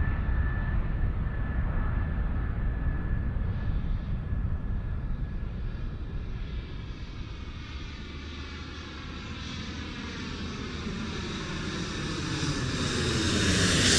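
Aircraft engine noise, a steady rumble that fades somewhat midway and then grows louder toward the end as the aircraft draws nearer.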